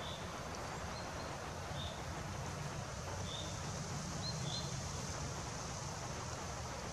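A small songbird giving short, high chirps every second or so, over a steady outdoor hiss and a low rumble.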